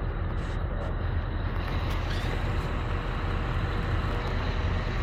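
Scania R560 truck's V8 diesel engine running steadily with a deep, even rumble.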